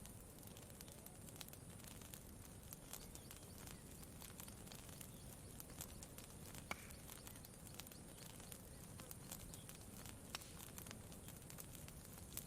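Campfire crackling faintly: scattered small pops at irregular intervals, one sharper pop about halfway through, over a soft steady low background.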